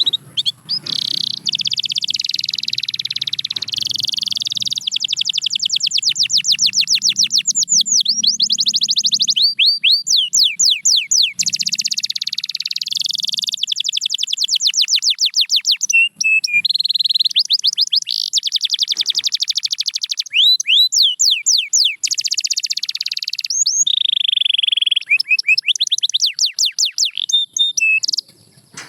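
Domestic canary singing a long, unbroken song of rapid trills and fast rising-and-falling whistled notes, with a brief pause about sixteen seconds in.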